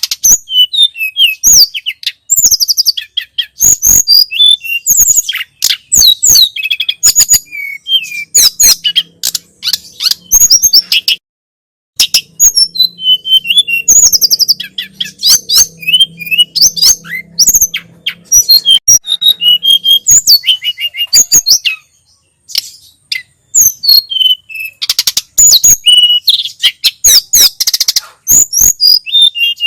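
Tledekan gunung (sulingan gunung) singing: a fast, high-pitched run of chirps and trills, breaking off briefly about eleven seconds in and again about twenty-one seconds in.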